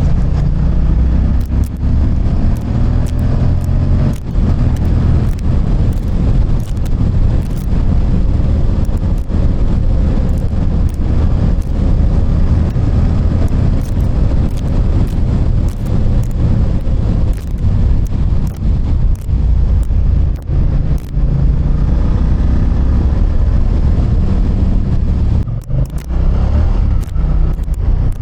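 Motorcycle riding on the road, heard from the rider's camera: the engine runs under a heavy low rumble of wind on the microphone. The engine's pitch rises as it accelerates, once near the start and again late on.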